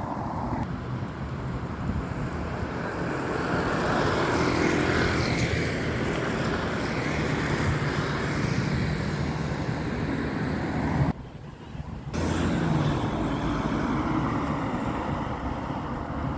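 Road traffic passing: a steady rush of engines and tyres that swells as a vehicle goes by. The sound drops out abruptly for about a second about two-thirds of the way through, then returns.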